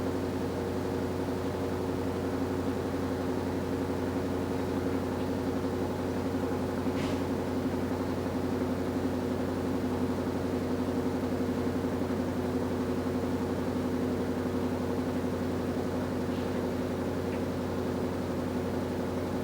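Washing machine running: a steady motor hum with several steady tones, unchanging throughout, with one faint tick partway through.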